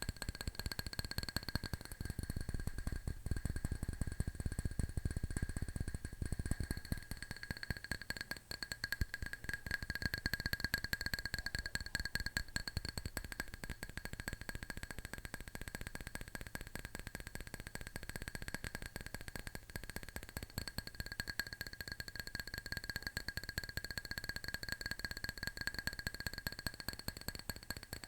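Fast fingernail tapping on a hard object, a dense run of clicks with a steady ringing tone behind them. The taps carry more low thud from about two to seven seconds in.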